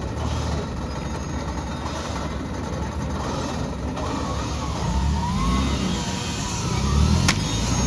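Off-road 4x4 engine running under load, its revs climbing about five seconds in and building louder near the end. A sharp click or knock about seven seconds in.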